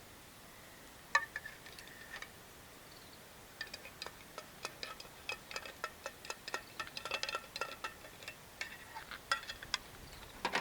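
Light metal pieces clinking and tapping against each other. A sharp clink about a second in rings briefly, then a long run of irregular clinks follows, several of them leaving short metallic rings.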